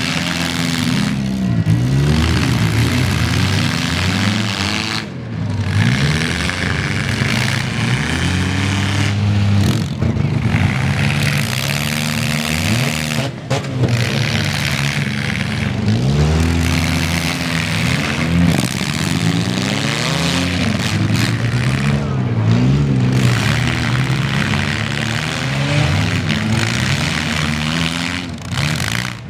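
Four-cylinder demolition derby car engines revving up and down over and over as the cars accelerate and back around the arena.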